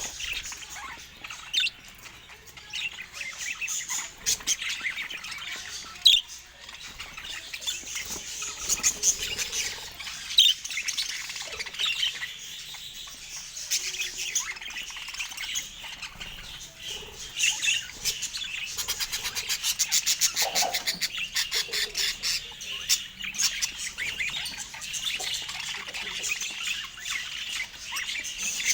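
Budgerigars chattering, a busy mix of high chirps, warbles and short squawks, with a run of rapid repeated notes about two-thirds of the way through.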